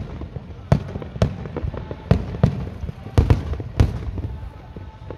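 Fireworks display: aerial shells bursting in quick, irregular succession, about a dozen sharp bangs over a continuous low rumble.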